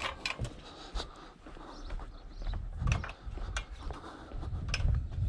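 Scattered clicks, knocks and rattles, with a few dull thumps, of a control panel being worked loose from scrap.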